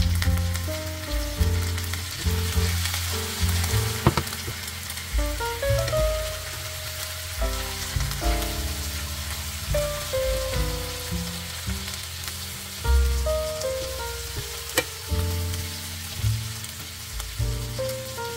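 Butterflied chicken legs sizzling in oil in a non-stick frying pan, with a couple of sharp clicks from tongs turning them. Background music with a bass line plays underneath.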